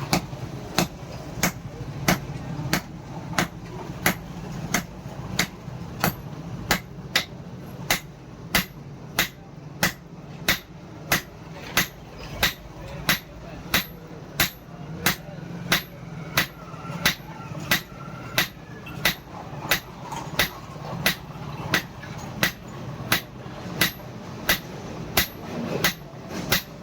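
Hammer blows striking steel on an anvil, a steady rhythm of about one and a half sharp metallic strikes a second, as bearing steel is forged into a throwing knife.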